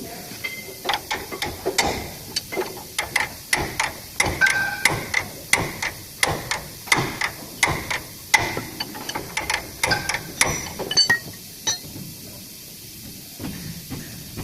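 Hammer striking metal over and over, about two to three irregular blows a second, some with a short metallic ring, while working the rubber bushing of a Hino 500 truck's torque rod. The blows stop about eleven seconds in.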